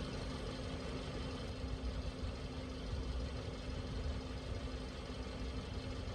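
Car engine idling steadily, a low rumble with a constant hum and no crunching or impacts.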